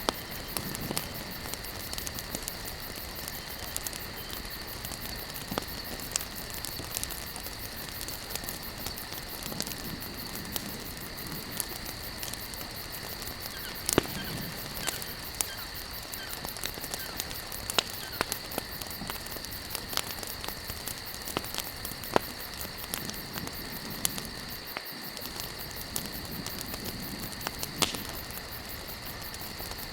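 Wood campfire burning, crackling with sharp pops at irregular intervals over a steady hiss.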